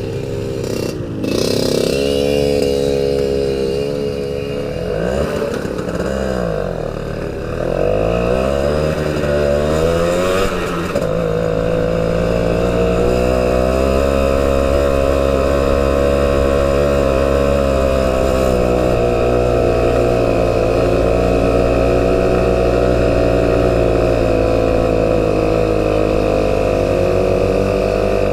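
Motorcycle engine under way. Its pitch rises and falls with throttle and gear changes for the first ten seconds or so, then holds steady at cruising speed.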